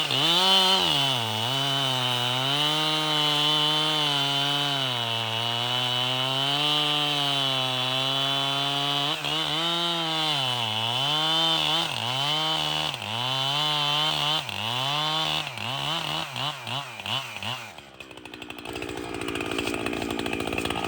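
Two-stroke chainsaw cutting through a firewood round at high revs, its pitch sagging under load and recovering. Over the second half the revs dip in quick repeated pulses, and about 18 seconds in the cutting note stops, leaving a quieter, lower engine sound.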